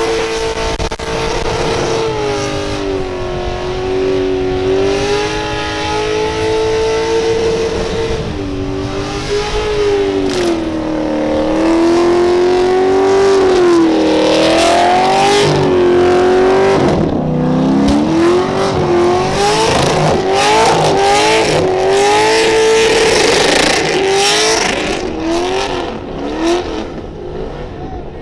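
Holden Commodore ute engine revving hard through a burnout. It is held high and wavering at first, then swings down and up, and in the last third it is blipped in a run of quick rising revs. Tyre noise hisses underneath.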